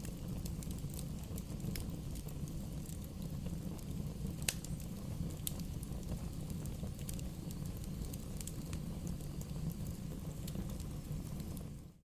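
Wood bonfire burning: a steady low rumble with scattered crackles and pops, one sharper pop about halfway through. The sound cuts out for an instant at the very end.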